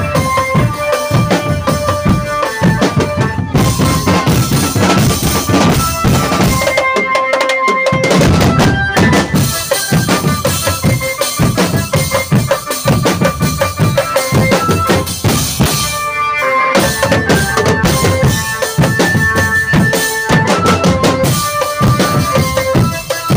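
Drum band music: dense bass and snare drumming under a melody of short held notes. The drums drop out briefly twice, about a third of the way in and again past the middle.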